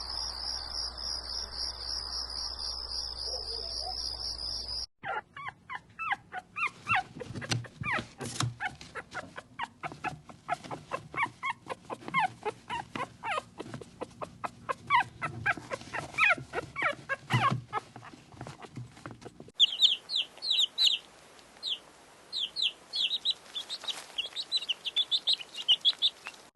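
A run of animal sounds in three cuts: crickets trilling steadily for about five seconds, then a quick, busy stretch of short animal calls and clicks, then high, short bird chirps in quick runs for the last several seconds.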